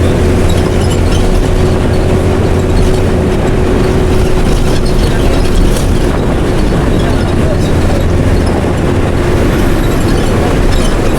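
Mercedes-Benz OM366LA inline-six turbodiesel of a city bus running through an open, straight-through exhaust: a loud, steady drone. The low drone eases a little after about six seconds and comes back strong near the end.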